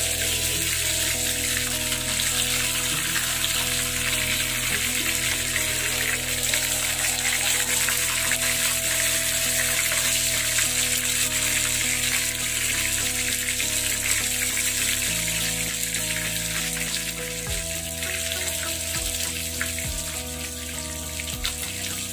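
Fish pieces sizzling steadily as they fry in oil in a pan, with background music of sustained tones playing throughout.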